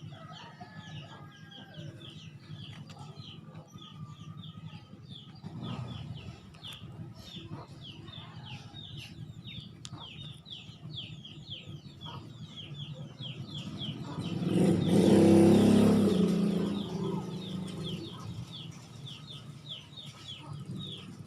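A small bird chirping over and over in short, falling chirps, about three or four a second. About two-thirds of the way through, a louder rumbling noise swells up and fades over a few seconds.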